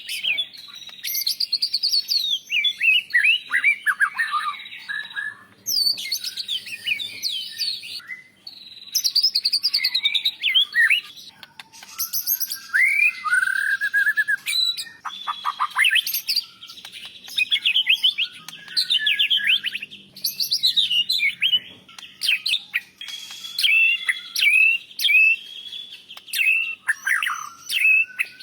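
White-rumped shama (murai batu) singing: a run of fast, varied whistled phrases with sweeping and trilled notes, each phrase a second or two long with short pauses between.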